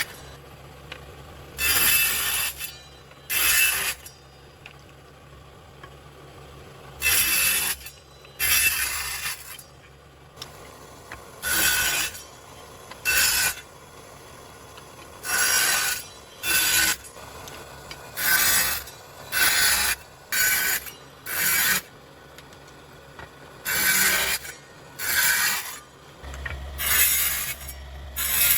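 A power tool's motor runs steadily while its cutter bites into animal bone in short, harsh bursts every second or two, as the bone is machined for buttons.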